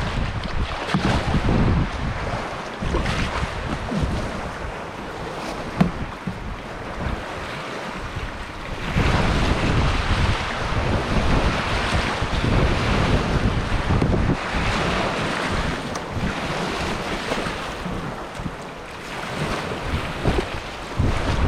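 Strong wind buffeting the microphone over big waves washing and breaking around a canoe, swelling and easing in surges. A single sharp knock about six seconds in.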